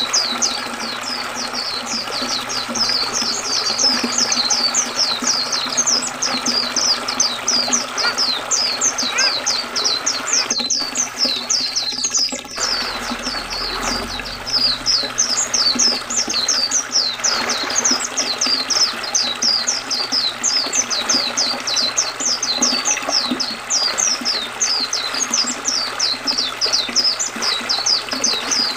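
White-eye (pleci) singing a rapid, unbroken run of short high downward-sliding chirps, about four a second, over the steady rush of flowing river water.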